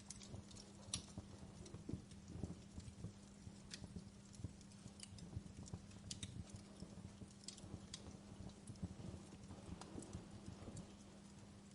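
Wood log fire in a fireplace crackling: irregular sharp pops and snaps over a low steady hum.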